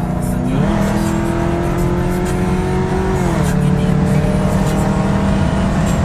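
Pontiac G8's LS V8 engine pulling hard under acceleration. The engine note climbs about half a second in, holds, then drops around three seconds in as if at a gear change, and holds again.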